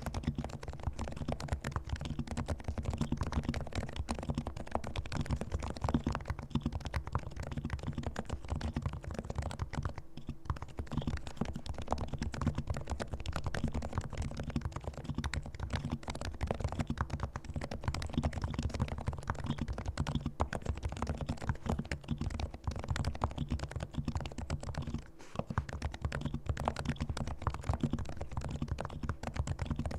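Continuous typing on a silent-model Realforce R2 Topre keyboard whose switches are fully lubricated: a dense run of soft, low keystrokes, with brief pauses about ten seconds in and again near twenty-five seconds.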